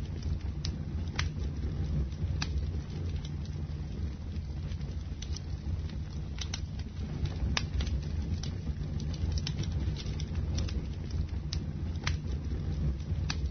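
Bonfire burning: a steady low rumble of flame with irregular sharp crackles and pops.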